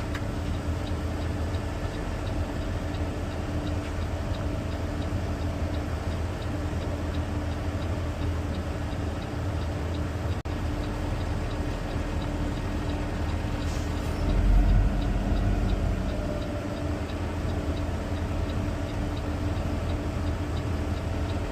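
Garbage truck's diesel engine running steadily with its hydraulics working the packer to crush a can. About 14 seconds in there is a click, then a brief rise in low rumble as the load increases.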